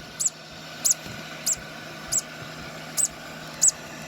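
Two-day-old conure chick peeping: six short, high squeaks about two thirds of a second apart, each rising and falling, the food-begging calls of a nestling.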